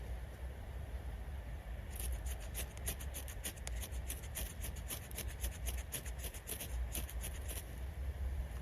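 A fire striker scraped rapidly and repeatedly to throw sparks onto chaga tinder, several strokes a second, starting about two seconds in and stopping shortly before the end. Wind rumbles on the microphone underneath.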